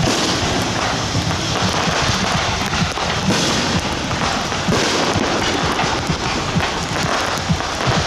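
Aerial fireworks going off without a break: a steady run of shell bursts and crackling stars, one bang quickly following another.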